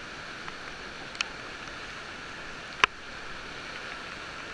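River water rushing steadily around a raft, with two sharp knocks, one about a second in and a louder one near three seconds in.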